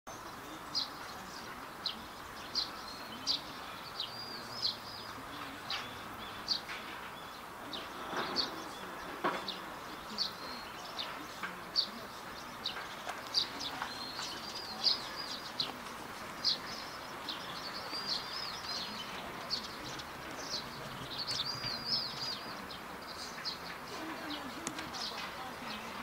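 Small birds chirping outdoors: short, sharp high chirps about once or twice a second, with a few brief warbling trills, over a faint steady background noise.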